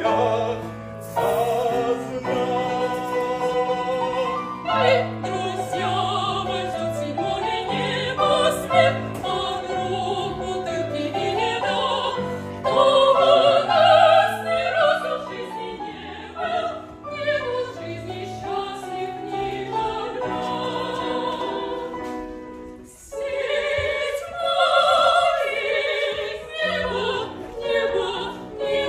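Operetta number: classically trained voices singing with vibrato over instrumental accompaniment, dropping off briefly a little after the middle before the singing comes back in full.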